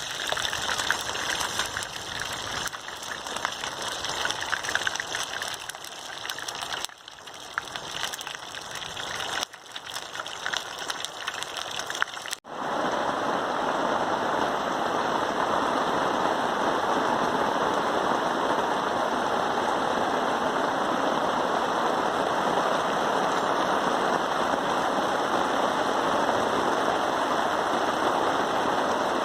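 Rain falling, a dense patter full of small ticks. About twelve seconds in it cuts abruptly to a steadier, even rush of rain.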